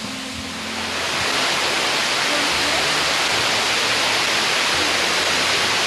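Waterfall: a steady, dense rush of falling water that swells up over the first second, with faint background music underneath.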